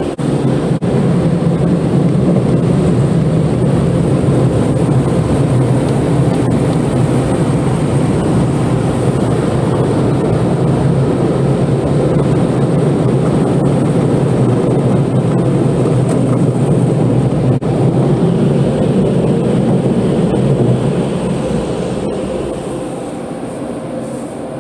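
Automatic car wash machinery heard from inside the car: a loud, steady noise that eases off over the last few seconds.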